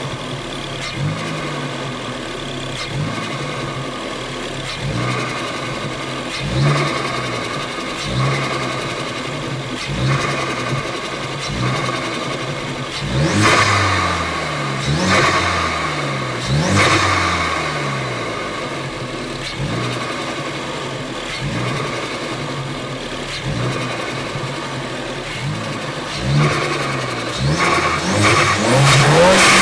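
Ford Focus ST's turbocharged engine revved in repeated short blips, dropping back after each, with the turbo fluttering on lift-off through a DV+ diverter valve. The strongest blips come in a cluster midway, and the revs climb again near the end.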